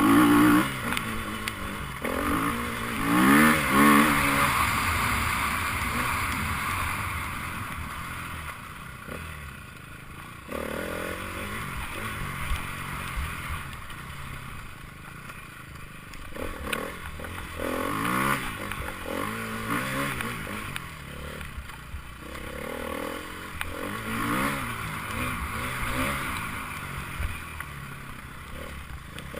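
Enduro motorcycle engines revving and passing one after another, their pitch rising and falling as the riders accelerate and back off. The loudest pass comes about three to four seconds in.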